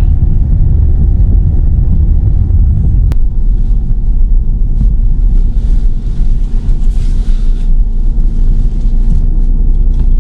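Steady low rumble of road and engine noise inside a moving car, with one sharp click about three seconds in.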